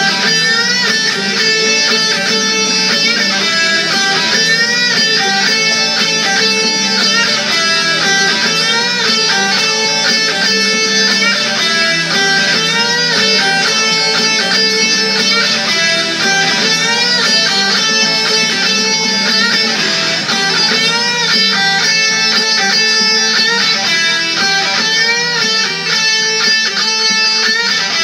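Electric guitar playing a rock song's guitar part, strummed chords mixed with bending, wavering notes, continuous and loud.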